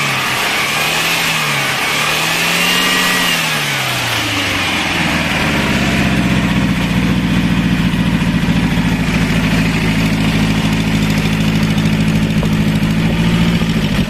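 Old V4 car engine, freshly started after standing unused for a long time. For the first four seconds it is revved up and down by hand at the carburettor throttle, then it settles into a steady idle, heard at the tailpipe.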